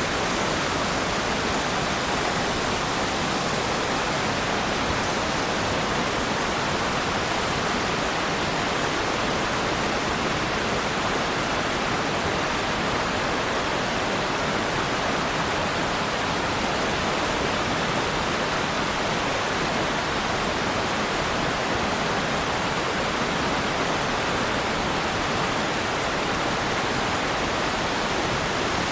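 Waterfall: water falling and splashing as a steady, even rush with no changes.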